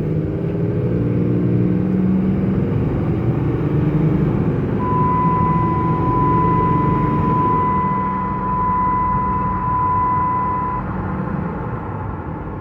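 Cummins 6.7 turbo-diesel engine of a Ram 3500 pickup running. Its pitch climbs over the first few seconds, then holds steady. A steady high-pitched tone sounds for about six seconds in the middle.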